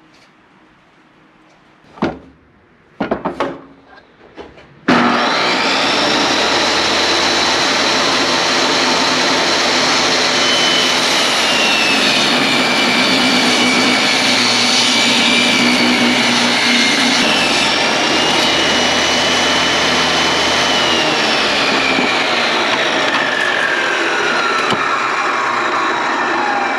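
A few knocks, then about five seconds in an electric saw starts abruptly and runs steadily, cutting through wooden boards. Its motor whine wanders in pitch and slides downward near the end.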